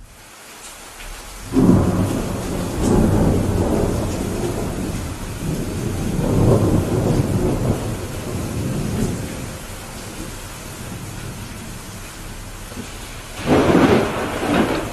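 Thunderstorm: steady rain falling with thunder. A loud clap breaks about a second and a half in and rumbles on in waves for several seconds, and a second sharp clap comes near the end.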